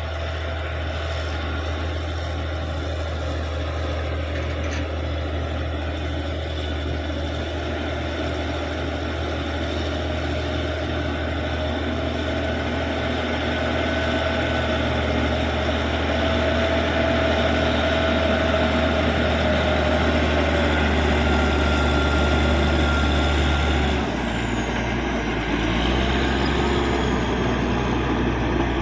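Caterpillar D6G bulldozer's diesel engine running steadily as the dozer works, growing slightly louder over the stretch. Near the end its low drone changes abruptly.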